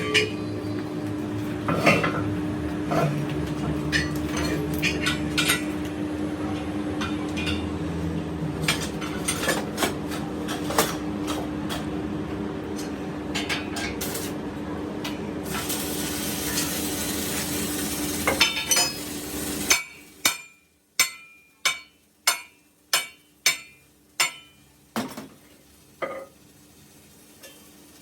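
Workshop sounds: scattered metal clanks and knocks over a steady machine hum, with a few seconds of high hiss. About twenty seconds in the hum stops, and a run of sharp metallic strikes follows, roughly two a second.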